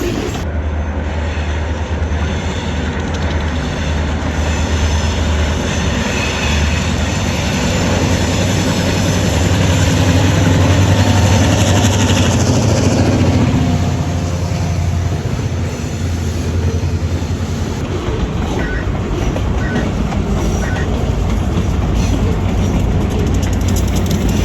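A train passing close by. A steady low engine drone from the locomotive peaks about halfway through, then gives way to the continuous rumble of railroad cars rolling on the rails.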